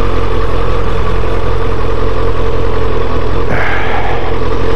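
1998 Kawasaki ZX-7R's inline-four engine running at low, steady revs as the motorcycle rolls slowly through traffic. A hiss joins about three and a half seconds in.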